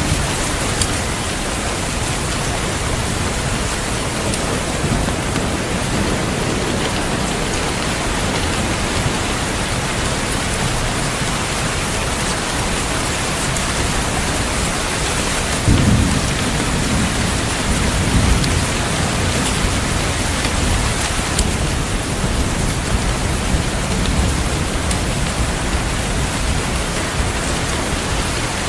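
Steady heavy rain falling. A little over halfway through, a rumble of thunder breaks in suddenly and rolls on for several seconds.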